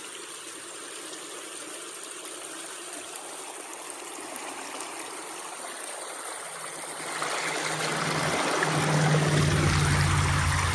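Creek water running over rocks, a steady rushing that grows louder about seven seconds in. A low rumble joins near the end.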